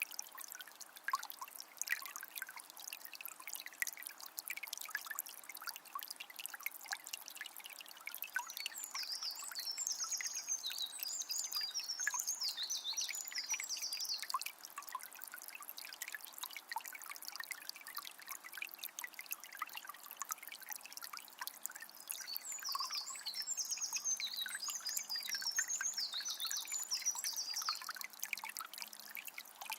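Small spring of water trickling and splashing steadily with many small drips. A bird sings two bursts of quick high chirps, about nine seconds in and again about twenty-three seconds in.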